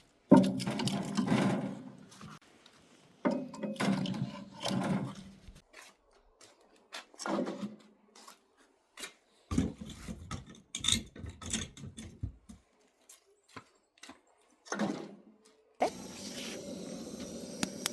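Firewood being handled as a fire is started: wooden scrapes, rubs and knocks in short, separate bursts, with gaps of dead silence between them.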